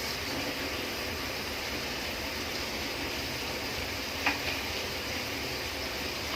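Spice masala cooking in a pot with a little water just added, a steady sizzling hiss, with one sharp click about four seconds in.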